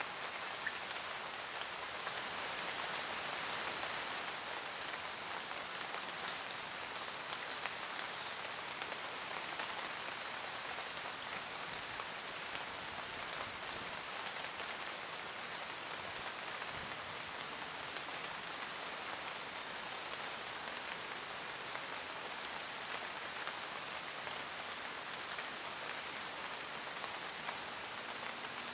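Steady rain falling on forest foliage: an even hiss of rainfall with many separate drop ticks.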